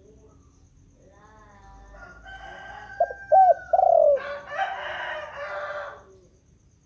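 Spotted dove (tekukur) cooing: three loud, short notes about three seconds in, in its melodious repeating call. A longer, harsher call follows right after.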